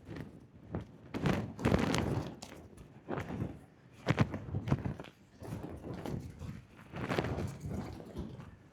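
Footsteps along a walking trail, uneven thuds every half second or so, with gusts of wind buffeting the microphone.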